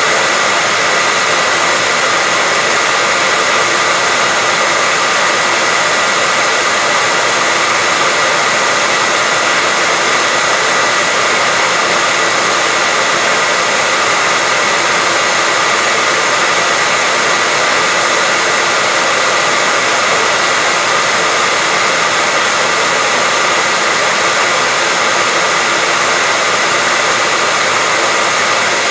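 Hair dryer running steadily: a constant airy rush with a steady whine on top, played as a sleep sound for a baby.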